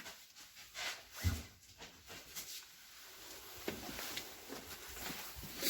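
Faint scattered rustles and knocks of handling while the fire is being lit in the fireplace, with a dull thump about a second and a half in and a sharper, hissing scrape near the end.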